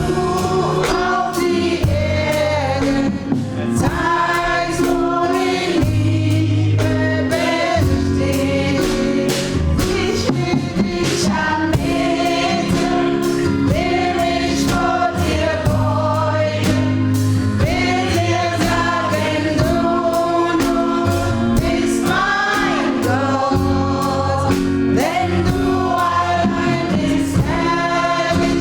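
Gospel choir singing live with instrumental accompaniment, a steady beat and a sustained bass line under the voices.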